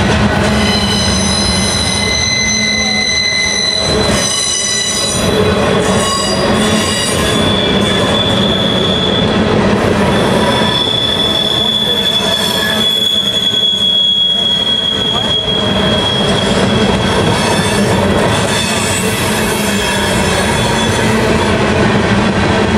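Freight cars of a mixed freight train rolling past, a steady rumble of steel wheels on the rails. High-pitched wheel squeal sounds over it for the first several seconds, then again as one long steady tone through the middle.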